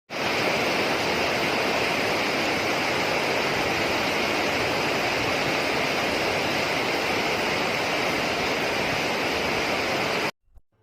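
Heavy rain pouring down, a dense, even hiss that cuts off abruptly near the end.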